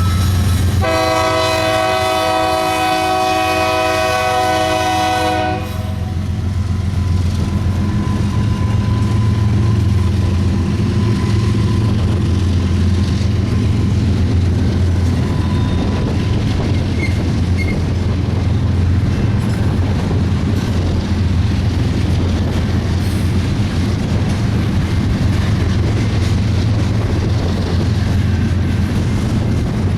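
A BNSF freight locomotive's air horn sounds one long chord blast starting about a second in and cutting off after some four and a half seconds. Under it and afterwards, the diesel locomotive engines drone steadily and the double-stack container train rolls by with wheel clatter on the rails.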